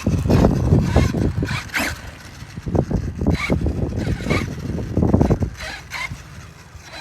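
Arma Mojave 6S electric RC truck, running on a 4S pack, driving on a dirt track: its brushless motor surges in repeated bursts of throttle over the rumble of tyres on dirt.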